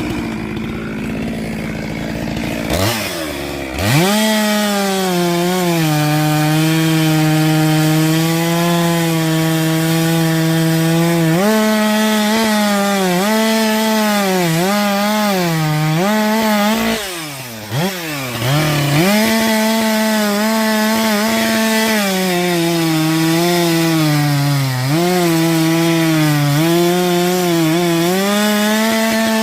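Chainsaw revving up about three seconds in and running at high speed while cutting firewood, its pitch dipping again and again as the chain bites into the wood. Just over halfway through the revs fall away and climb back.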